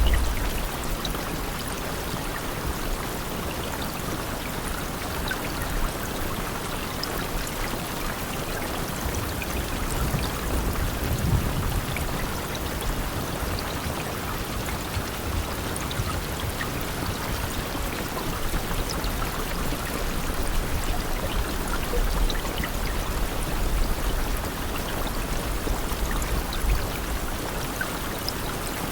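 Steady rain falling, an even hiss with scattered drop ticks and occasional low rumbles underneath.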